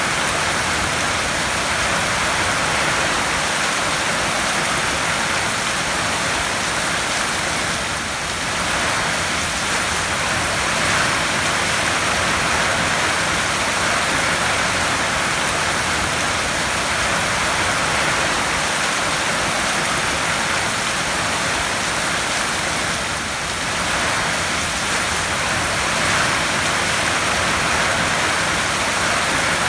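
Heavy rain falling on a tin roof, a steady dense hiss that eases slightly twice for a moment.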